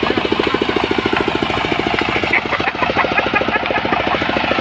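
Engine of a portable sawmill running steadily, with a rapid, even beat.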